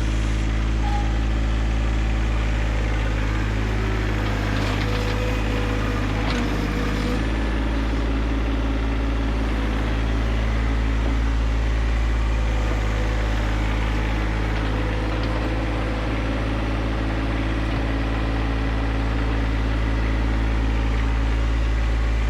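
John Deere 1025R compact tractor's three-cylinder diesel engine running steadily, its tone shifting slightly about seven seconds in. A few short knocks come a few seconds in.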